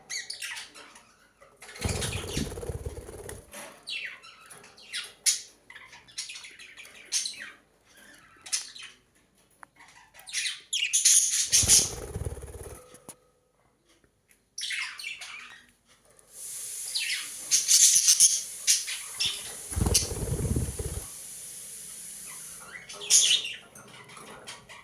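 Budgerigars chirping and chattering in quick short calls, with three louder bursts of fluttering or rustling, about 2 seconds in, near the middle and about 20 seconds in.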